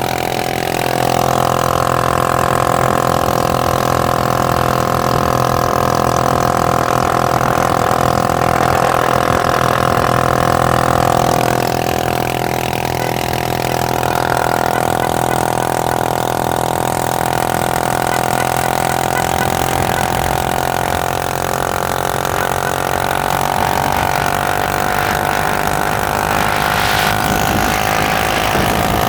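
Motorcycle engine running steadily during a ride, its pitch drifting slightly up and down.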